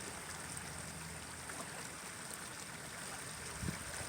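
Faint, steady rush of water flowing out of a culvert outlet into a river.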